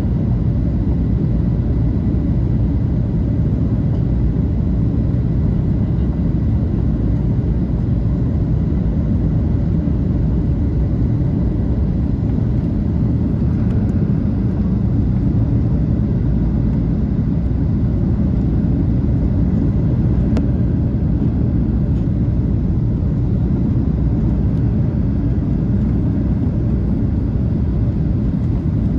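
Steady low rumble of a Boeing 737-800's engines and rushing air, heard from inside the passenger cabin.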